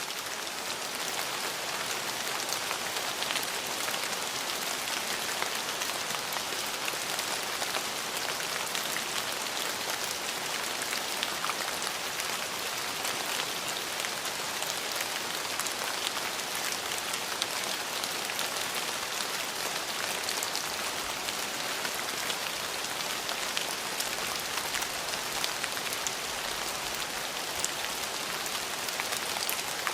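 Steady rain falling on a hard surface, an even hiss with scattered individual drop taps.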